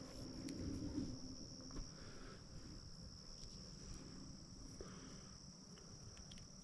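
Crickets chirring: a steady, faint, high-pitched trill, with a soft rustle about a second in.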